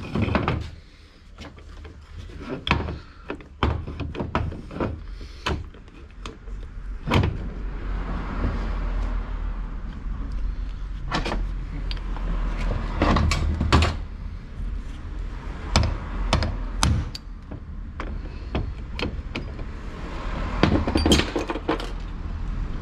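Irregular sharp metal knocks and clanks of hand tools working on a tractor's gear lever and shift cover. A low steady hum joins about seven seconds in.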